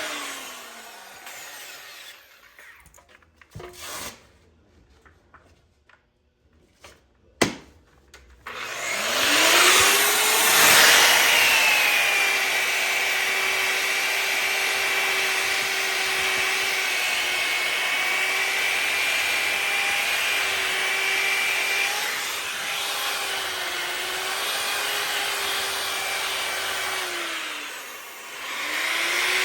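A Bauer variable-speed grinder with a sanding disc, sanding a cast iron skillet. It spins down at the start, and a couple of clicks sound in the pause. About 9 s in it spins back up and runs with a steady motor tone over a gritty grinding hiss. Near the end it slows and dips before spinning up again.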